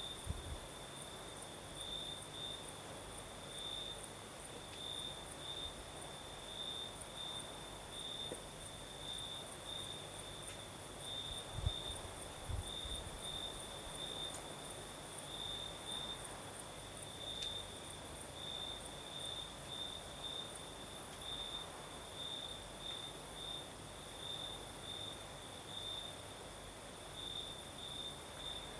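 Crickets chirping in a steady high trill that swells in repeated pulses, over the soft hiss of a breeze. A few brief low thumps sound at the start and about twelve seconds in.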